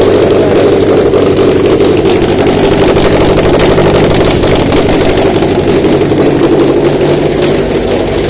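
Subaru FB20 2.0-litre flat-four boxer engine running steadily at idle on a test stand, a constant even hum with fast regular firing pulses.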